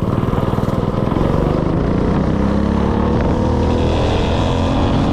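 A mini bike's 196cc single-cylinder engine running under throttle, its pitch rising steadily as it revs up.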